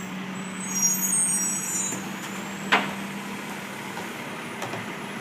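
Garbage truck engine running steadily, with a brief swell of noise about a second in and one loud metallic clank near the middle.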